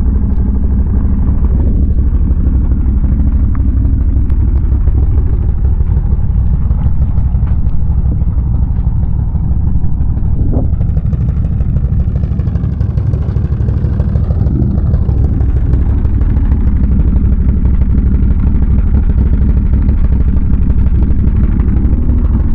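Can-Am Renegade ATV's V-twin engine running steadily while riding, a continuous low-pitched pulsing sound with slight changes in throttle partway through.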